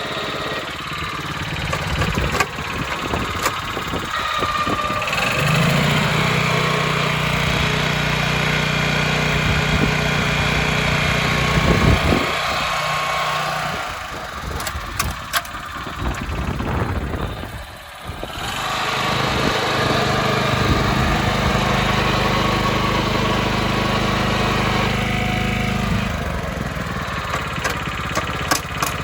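Small single-cylinder gasoline engine of an ISEKI KCR63-HX walk-behind cultivator (FE161G, 5.3 PS) running on a test. Its speed is uneven at first, then it settles into a steady, even note about five seconds in. It drops off briefly around seventeen seconds and then picks up to the steady note again.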